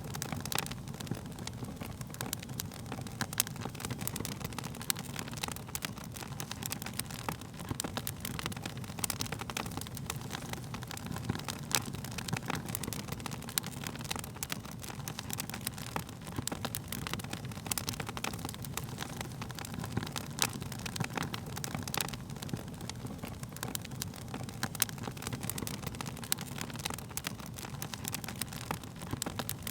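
Wood fire crackling, with irregular sharp pops and snaps over a low steady rumble of burning flames.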